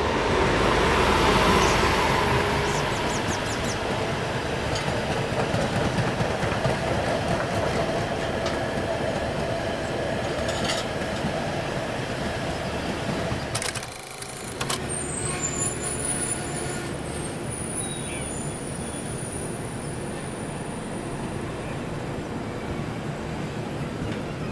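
Express passenger train passing at speed on the adjacent track: the electric locomotive goes by first, loudest in the first couple of seconds, then a long rake of coaches rumbles and clatters past. In the second half the rumble is lower and steady, with a thin high whine over it.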